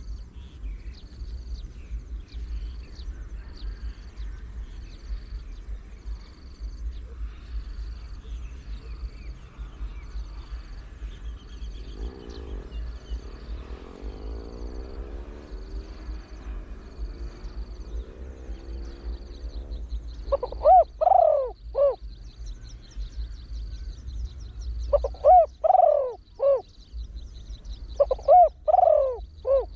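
Spotted dove cooing in three phrases of a few deep coos each. The first comes about two-thirds of the way in and the other two close together near the end, over a faint high chirp that repeats steadily throughout.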